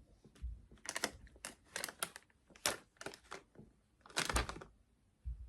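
Plastic candy packet crinkling as it is handled, in short irregular bursts of crackling, with the loudest bunches about a second in, around two seconds and near four and a half seconds.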